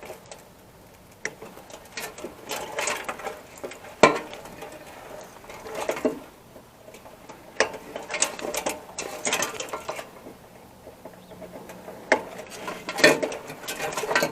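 Metal parts and wiring of a small server rack being handled during teardown: bursts of rattling and clattering, broken by a few sharp single clicks.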